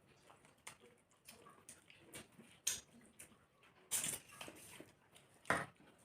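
People eating rice and chicken curry: irregular wet chewing and lip-smacking sounds, with three louder smacks at about a third of the way in, past the middle, and near the end.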